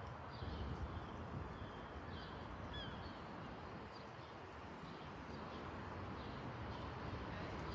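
A small bird chirping over and over, short high calls about every second, over a low steady rumble.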